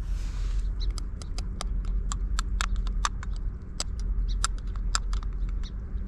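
A rapid, irregular run of sharp clicks and taps from small plastic collecting containers and tweezers being handled, over a steady low rumble.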